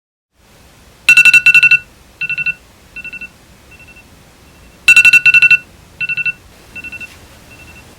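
Electronic ringing tone: two short bursts of rapid high trills, about four seconds apart, each followed by a few fainter repeats that die away like an echo.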